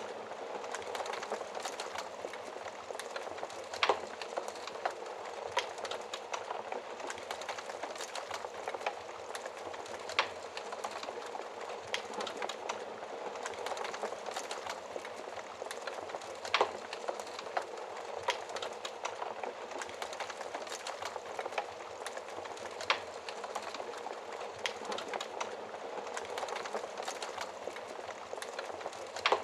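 Wood fire crackling in a fireplace: a steady hiss full of small pops, with a sharper snap about every six seconds.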